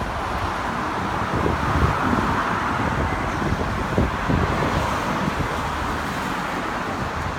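Steady road traffic: cars passing continuously on a busy road, a constant rush of tyre and engine noise.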